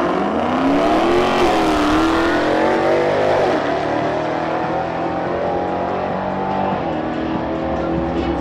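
Dodge Challenger Hellcat's supercharged V8 launching off the drag-strip start line at full throttle, its pitch climbing and then dropping back at each upshift as it accelerates away, growing a little fainter after a few seconds.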